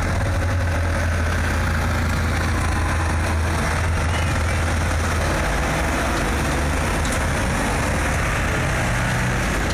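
Micro banger race car engines idling with a steady low drone.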